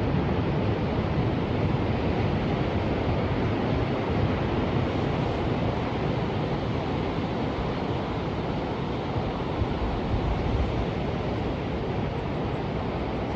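Ocean surf: a steady, even wash of waves with no separate crashes standing out.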